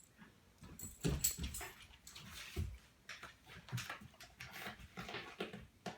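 Dog whimpering softly in short, irregular sounds.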